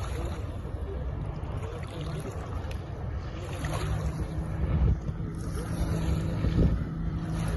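Tohatsu 30 hp four-stroke outboard with an MSP flap exhaust, running at a steady speed on a RIB under way. Wind buffets the microphone and water rushes against the hull, with a couple of louder splashes.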